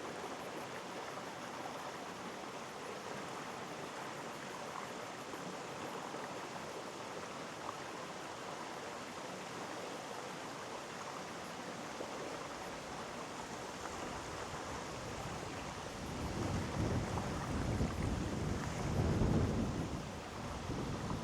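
Mountain stream rushing steadily. About three-quarters of the way in, a low, irregular rumble starts to surge over it and grows louder toward the end.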